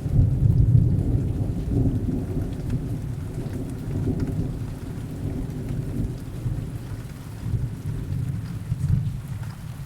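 Distant rolling thunder rumbling over steady heavy rain. The rumble is loudest about a second in, slowly fades, and swells briefly again near the end.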